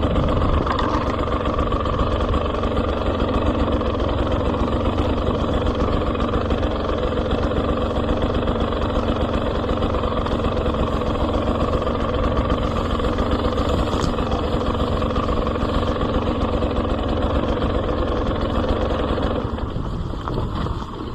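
GasGas EC 300 two-stroke enduro motorcycle engine running steadily under light throttle while riding. It gets quieter about nineteen seconds in, as the throttle eases off.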